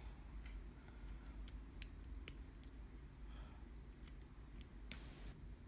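Faint, scattered clicks of a lock pick working the pin stack of a 5-pin Bird night-latch cylinder under light tension, about half a dozen ticks at irregular intervals with the sharpest near the end.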